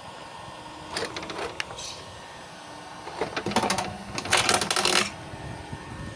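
Metallic clicks and rattling clatter from metal parts being handled, sparse at first and turning into a dense clatter about four seconds in.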